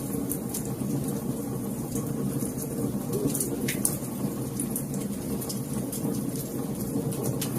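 Fireplace fire crackling: irregular sharp snaps and pops over a steady low rush of burning.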